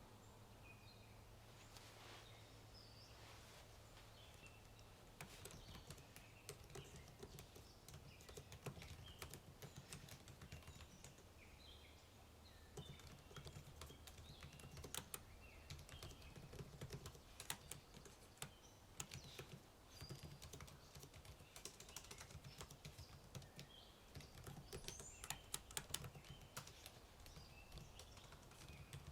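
Typing on a computer keyboard: irregular runs of key clicks starting about five seconds in, over faint birdsong.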